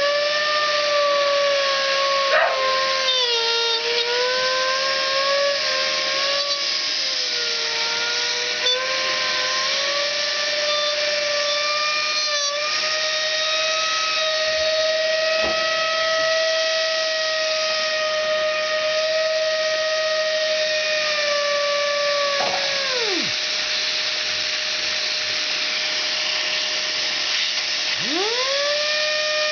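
A computer fan driven far past its normal speed by air blown from a Dyson DC08 vacuum cleaner, giving a high, slightly wavering whine over a steady rush of air. A little past two-thirds of the way through, the whine drops quickly in pitch and dies away as the fan spins down. Near the end it rises back up as the fan spins up to speed again.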